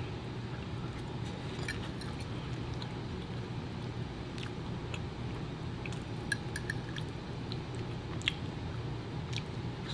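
Close-miked chewing and mouth sounds of someone eating, with light clicks of a metal fork against a plate, the sharpest about six and eight seconds in.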